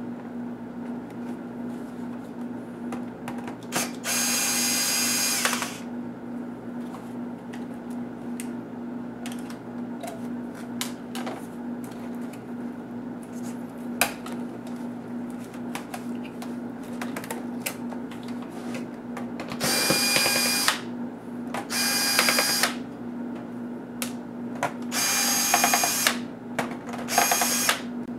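Small electric screwdriver whirring in five short bursts as it drives out the laptop's case screws, with light clicks and taps of the screws and plastic parts being handled between the bursts.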